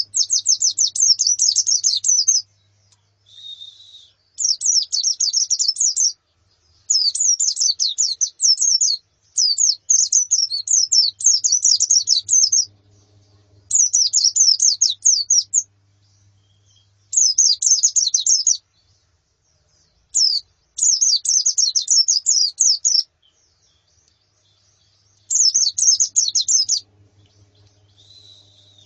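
White-eyes (pleci) singing in fast, high chattering trills, in bursts of one to two and a half seconds with short pauses between them, about nine in all. A faint low hum runs underneath.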